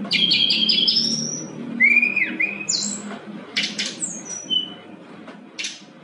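Brown-chested jungle flycatcher singing: a fast run of repeated high notes that ends in a rising whistle, then a clear whistled note about two seconds in, a quick upward note, and a few short sharp notes near the end.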